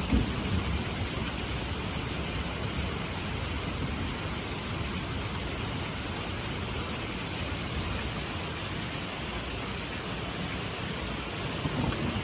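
Steady rain falling, an even hiss, with brief low rumbles right at the start and again near the end.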